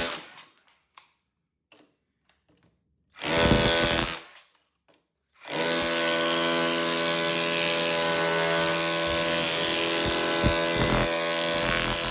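Cordless SDS hammer drill with a wide chisel bit hammering into a brick to chip it apart: a short burst about three seconds in, then a steady run from about five and a half seconds in that continues to the end.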